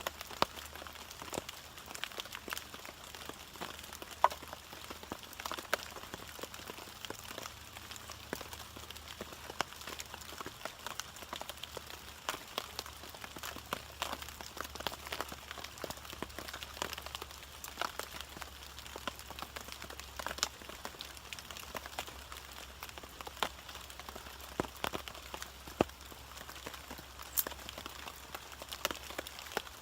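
Rain falling, with many irregular sharp ticks of drops striking nearby surfaces over a light steady hiss.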